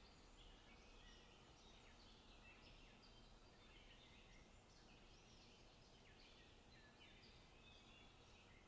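Faint forest birdsong: several small birds chirping and trilling in overlapping short phrases, over a steady low background hiss.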